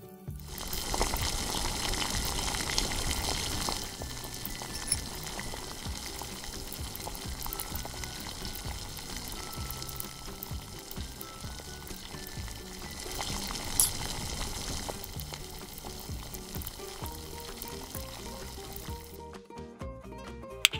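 Diced strawberries sizzling as they cook down in a small metal pan, with a spoon stirring, loudest over the first few seconds and then a softer sizzle. There is one sharp clink about 14 seconds in, and light background music underneath that comes to the fore near the end.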